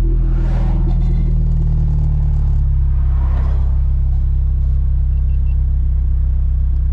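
2ZZ-GE four-cylinder engine in a Corolla race car idling steadily, heard from inside the cabin, with no revving. Two soft whooshes rise and fade, about half a second in and again about three seconds in.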